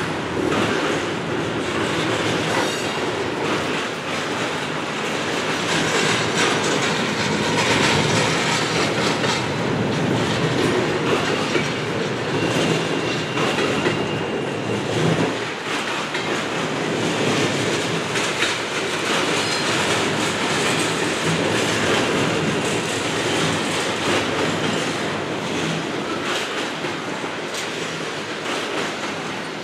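Double-stack intermodal container cars of a long freight train rolling steadily past, their wheels clacking over rail joints. A faint, high wheel squeal comes and goes now and then.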